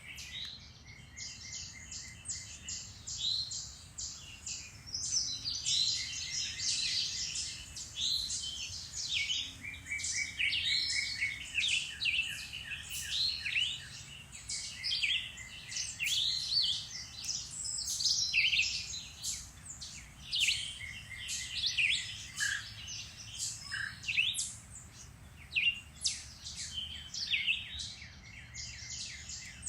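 Several songbirds singing and chirping at once in a dense, overlapping chorus of quick chirps and trills.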